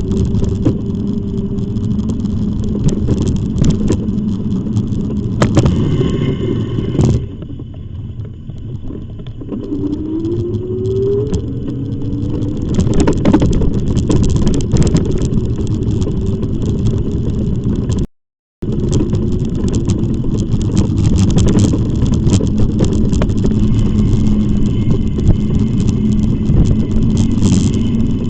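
Riding noise from an e-bike: wind buffeting the microphone and rattles over a steady low hum. About eighteen seconds in, the sound drops out to silence for half a second.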